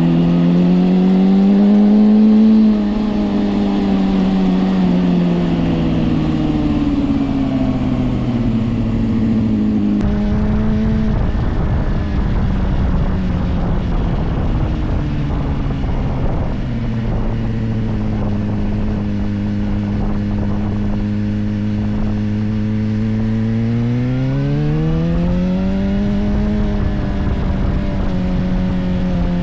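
Suzuki GSR 400's inline-four engine running through a Yoshimura exhaust while riding: the note climbs for a couple of seconds, then falls away slowly as the rider eases off. It holds a steady low note for a while, then climbs again near the end and settles. From about a third of the way in, a low rushing noise runs under the engine.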